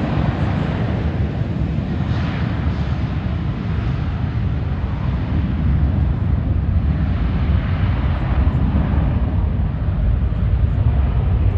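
Embraer KC-390 Millennium's twin turbofan jet engines heard in flight: a steady, loud jet rumble that swells briefly about two seconds in and grows louder in the second half.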